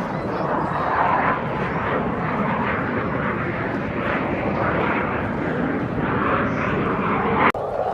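Aircraft engine noise from an airplane flying past, steady and loud, cut off suddenly near the end.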